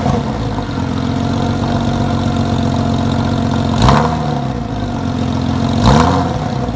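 Porsche 993's air-cooled flat-six idling through a Fister 3 aftermarket exhaust, blipped twice about four and six seconds in, each time revving up briefly and dropping straight back to idle.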